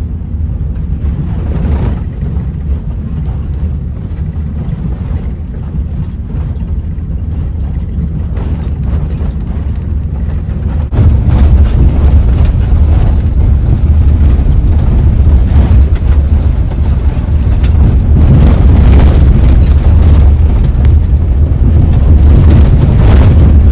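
A car driving on a rough, potholed road: a steady low rumble of engine and road noise with frequent knocks and jolts, getting louder about eleven seconds in.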